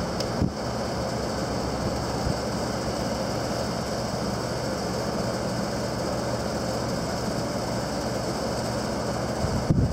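Mitsubishi MD-25TF2-F spot air conditioner running steadily: an even fan-and-motor drone with a faint high whine.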